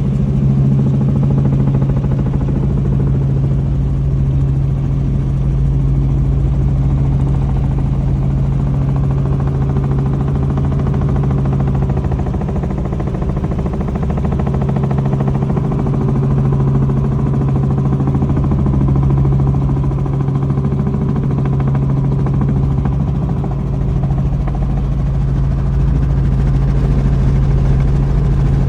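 Helicopter in flight: a steady engine and rotor drone with a constant low hum.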